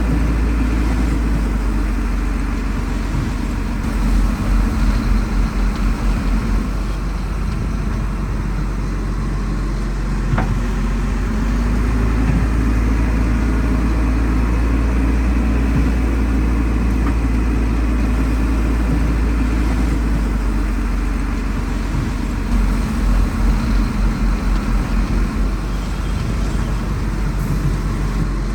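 Heavy diesel engine of construction machinery running steadily with a deep rumble. About four seconds in, and again some eighteen seconds later, the rumble takes on a rapid pulsing throb for a few seconds.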